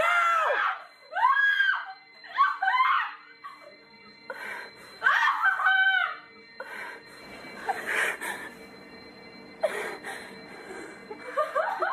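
Women screaming and crying out in panic, a series of high, wavering cries over the first six seconds, followed by a few seconds of softer, rougher noisy swells. Faint steady tones, like music or a television, run underneath.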